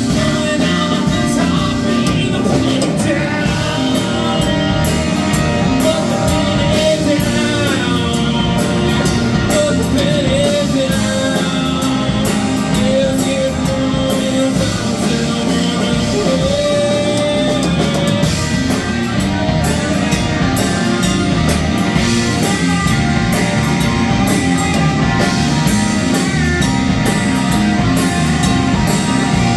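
A rock band playing live, with a drum kit and guitars, loud and steady throughout, and a held, bending melody line above them.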